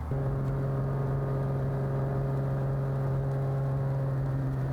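Light airplane's piston engine idling with a steady, even drone, held at low revs while the oil warms up.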